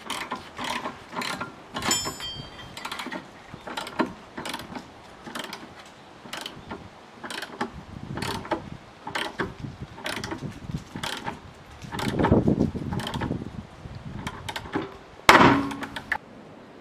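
Metal hand tools and car parts clinking and clanking in an irregular run of sharp knocks and clicks. There is a short ringing metal strike about two seconds in, a rumbling scrape around twelve seconds, and the loudest clank near the end.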